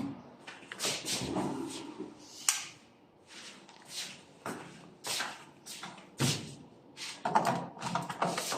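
A series of irregular knocks, clicks and thuds, about one or two a second, growing denser and louder near the end.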